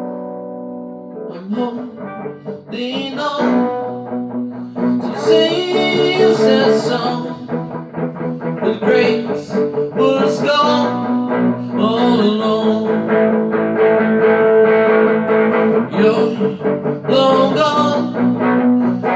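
Guitar playing an instrumental passage of a song. A chord rings and fades at the start, then picked notes and strummed chords follow.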